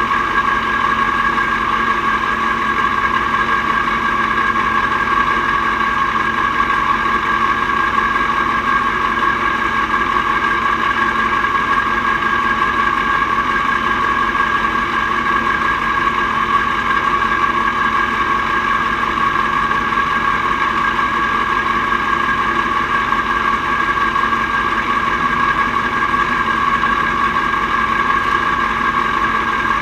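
Mack R-series V8 diesel truck engine running at a steady speed, its note holding level with no revving or gear changes.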